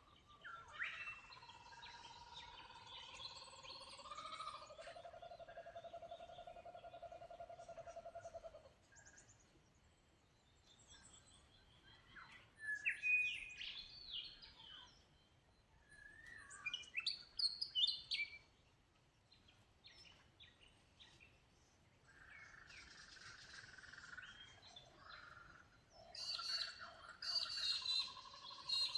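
Birds singing and calling in turn. A long call with a held tone over a buzzing lower note lasts about the first eight seconds. Short bursts of gliding, warbling notes follow, and near the end many calls overlap.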